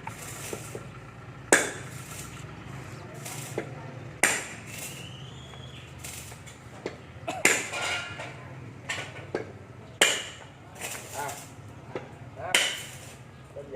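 Tools and metal pump parts knocking and clinking during reassembly of a submersible pump: about five sharp knocks, each a couple of seconds apart and ringing briefly, with lighter clicks in between.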